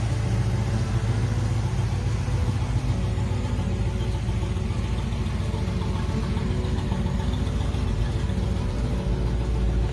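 1972 Chevrolet Nova Super Sport's small-block V8 idling steadily, its exhaust running through aftermarket headers.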